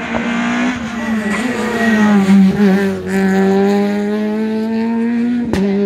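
Rally car engine running at high revs as the car drives along the stage. The pitch stays high and fairly steady, with a brief dip about two and a half seconds in, and is broken by sharp clicks about three and five and a half seconds in.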